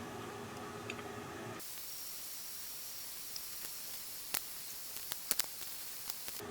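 A steady high hiss that starts abruptly about a second and a half in and stops abruptly near the end, with a handful of sharp clicks in its second half.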